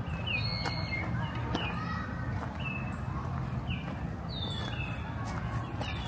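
Songbirds singing: short falling chirps repeated about once a second, with a higher whistled note now and then, over a steady low rumble.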